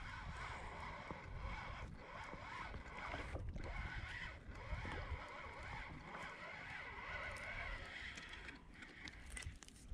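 Steady wash of wind and water around a fishing kayak at sea, with a hiss that eases off near the end.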